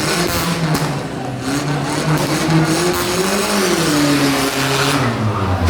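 Car engine held at high revs with a wavering note that rises slightly a little past halfway and drops away near the end. A few sharp cracks come in the first second.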